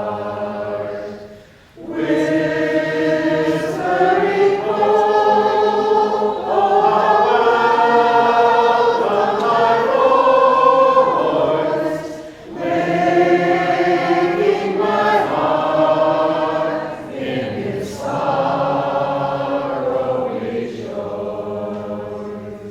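A small choir singing in several voices, in long held phrases with short breaks about 2, 12 and 17 seconds in; the singing stops near the end.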